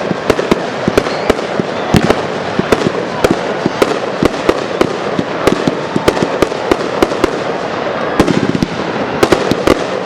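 Fireworks display: a rapid, irregular string of sharp bangs, several a second, over a dense continuous noisy wash.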